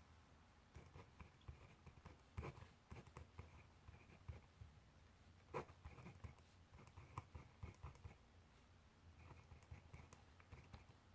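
Faint scratching and tapping of a pencil or pen writing on paper, in short irregular strokes, with a couple of sharper taps.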